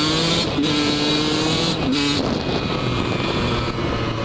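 Yamaha YZ125 two-stroke dirt bike engine running hard under the rider, a steady pitched tone for about two seconds that then backs off.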